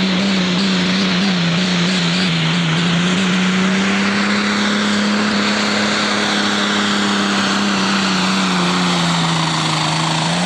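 Turbocharged diesel Pro Stock pulling tractor running hard at high, steady revs down the track. Its engine note sags a little about nine seconds in and then picks back up.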